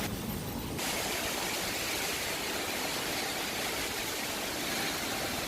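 Typhoon wind and heavy rain blowing steadily, a continuous rushing noise.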